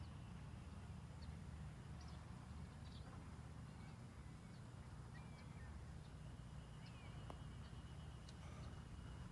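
Faint open-air ambience: a steady low wind rumble on the microphone, with a few faint, short bird chirps scattered through it.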